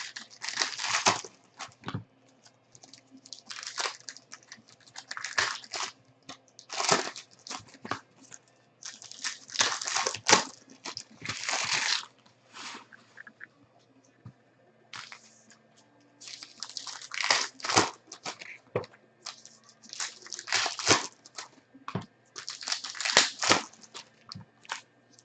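Crinkling and rustling of plastic and foil card packaging being handled and torn, in irregular bursts with short pauses between them.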